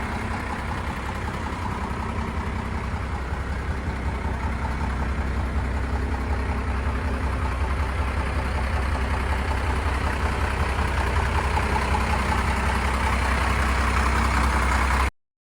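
First-generation Cummins 5.9-litre inline-six turbo diesel in a 1991 Dodge Power Ram W250 idling steadily. It grows slightly louder toward the end and then cuts off suddenly.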